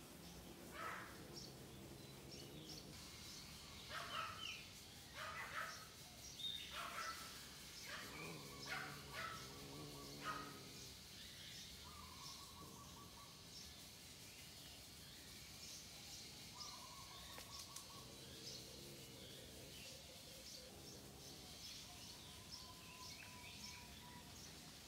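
Birds chirping in short high calls, busiest in the first ten seconds, with a few brief whistled notes later. Low, wavering calls sound three times in the background.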